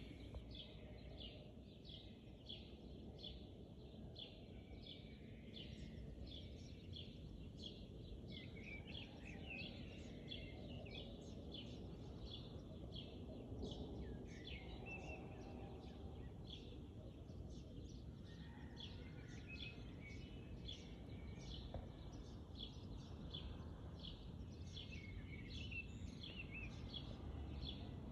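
Birds chirping over a low steady background hiss: a long run of short, high chirps, about two a second, with a few sliding calls among them.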